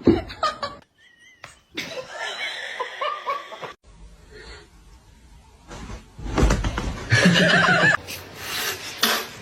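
A person laughing, across several short clips joined by sudden cuts.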